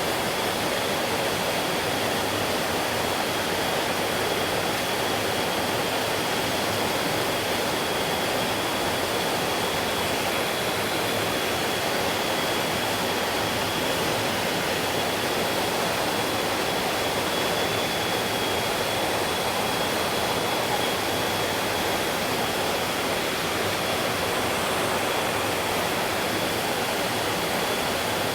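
Mountain stream rushing over rocks, a steady even wash of flowing water with no breaks. A thin, steady high tone sits above the water.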